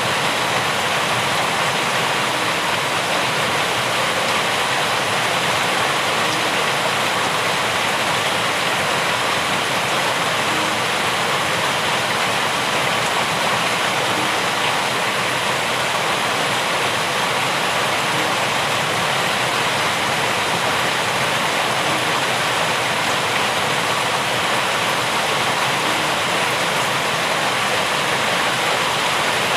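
Steady, even rain falling, with no change in strength throughout.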